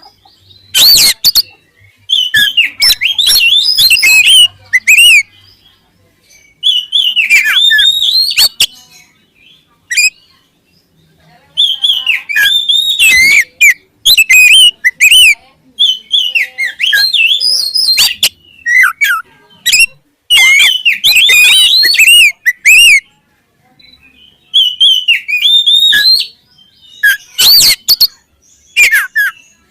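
Oriental magpie-robin (kacer) singing loudly in repeated bouts of rich, fast whistled phrases mixed with sharp clicking notes, each bout a second or two long with short pauses between.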